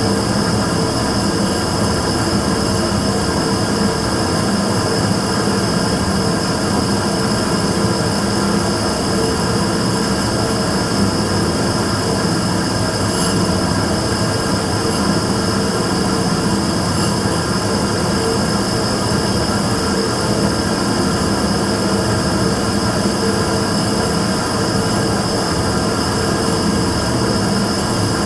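Immersion tube burner running with a steady, loud machine drone that carries fixed humming tones, the abnormal noise the burner is making. A couple of faint ticks sound near the middle.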